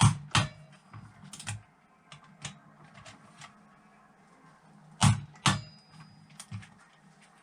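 Sharp clicks and knocks of hand tools as engine bolts are tightened to torque, the loudest coming as two quick pairs, one at the start and one about five seconds in, with fainter ticks between.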